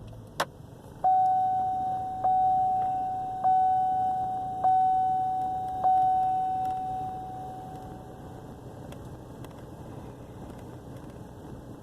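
Truck dashboard warning chime ringing five times, about a second apart, each ding dying away, right after the fourth restart. A sharp click comes just before the chimes, and a low steady engine hum runs underneath: the engine idling low and rough after the restart.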